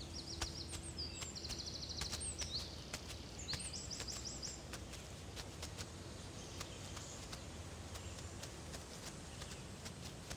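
Outdoor field ambience with a bird singing quick runs of repeated high chirps over the first four seconds or so, and scattered faint clicks and rustles of bare feet stepping through grass.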